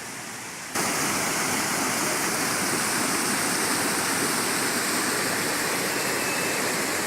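A waterfall rushing in a steady, even roar of falling water, which jumps abruptly louder and closer about a second in.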